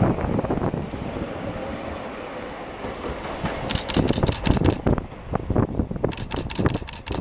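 A streetcar running along the track with a steady rumble. From about halfway it gives way to a quick run of sharp clacks and knocks, wheels going over rail joints or points.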